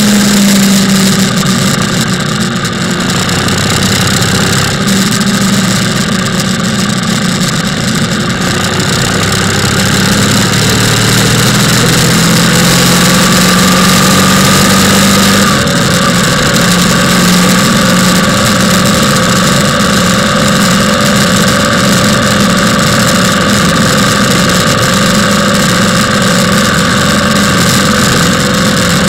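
Motorcycle engine running under way, its note rising gradually about ten seconds in as the bike speeds up, then holding steady. A constant rush of wind and road noise sits under it.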